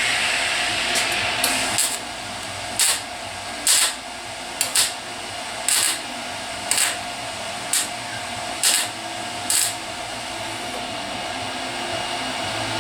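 Welder patching rusted sheet metal on a truck body: a continuous weld run at first, then about a dozen short stitch welds roughly a second apart. A faint steady hum runs underneath.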